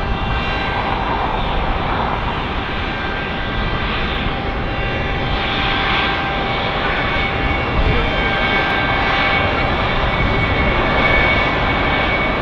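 Jet aircraft engines running loud and steady, a roar with a high whine of several steady tones over it.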